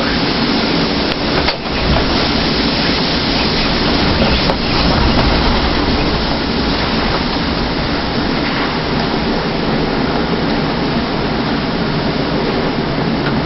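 Hurricane-force typhoon wind blowing hard and buffeting the microphone: a dense, continuous rushing noise with a heavy low rumble, dipping briefly about a second and a half in.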